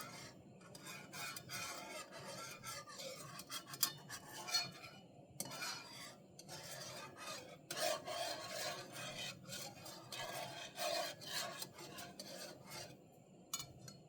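A utensil stirring and scraping against the bottom of a pot of gravy, in stretches of strokes broken by short pauses and a few light clicks.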